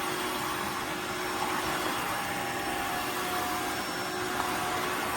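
Cordless wet-dry vacuum mop running steadily: an even motor-and-suction whir with a faint steady hum.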